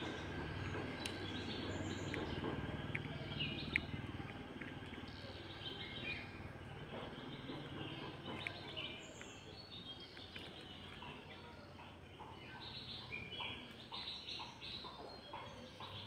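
Small birds chirping over outdoor background noise, with a low rumble that fades during the first half and chirps that grow busier toward the end.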